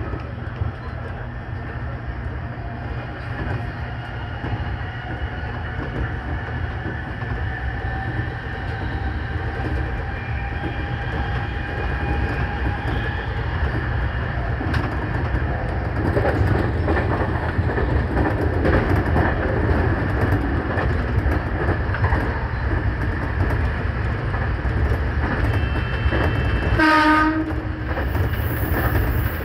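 JR Kyushu 813 series electric train running, heard from the driver's cab: a steady rumble of wheels on rail with a faint motor whine slowly rising in pitch, getting louder about halfway through with rail-joint clicks. A short horn blast sounds near the end.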